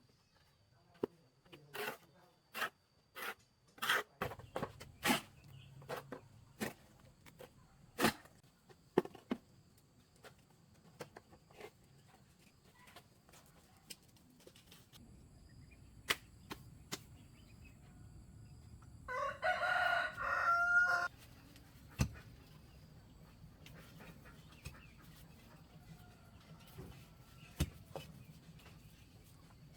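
A rooster crows once, a call about two seconds long, some two-thirds of the way in. Before it comes a run of sharp knocks at an uneven pace, thinning out after about ten seconds.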